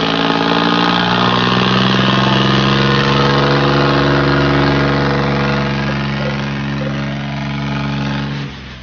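Tractor diesel engine running loud and steady at a constant speed, dropping away shortly before the end.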